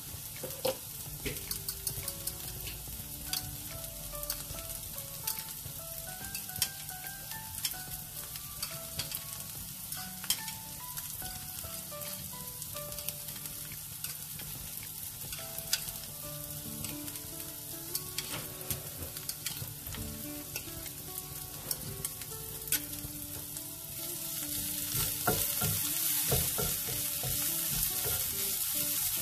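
A pounded paste of chili, onion, garlic and anchovy sizzling in oil in a frying pan, with scattered clicks and scrapes from a wooden spatula. The frying gets louder about 24 seconds in.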